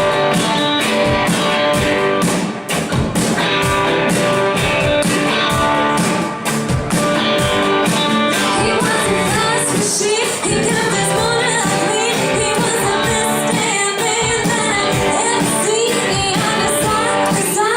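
Live rock band playing a song with drums and guitar, a vocalist singing from about halfway in.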